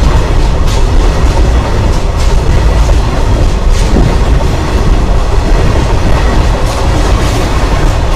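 Loud, continuous rumble and clatter of a freight train's wagon wheels rolling on the rails directly overhead, with irregular clicks as the wheels cross the rail joints.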